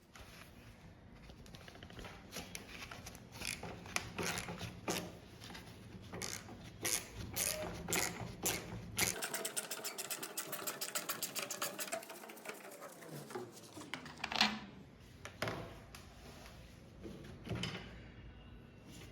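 Tools working on metal parts: irregular sharp clicks and knocks, with a fast, even run of ratchet-like clicks about halfway through.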